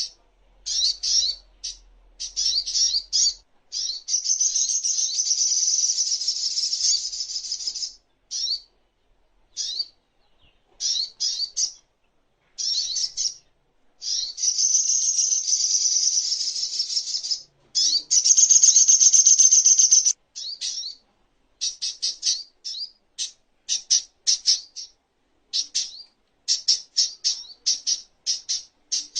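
Crimson sunbird (sogok ontong) singing high-pitched song: short chirping phrases broken by long, fast, buzzy trills of two to four seconds, then a quick series of sharp separate chirps in the last third.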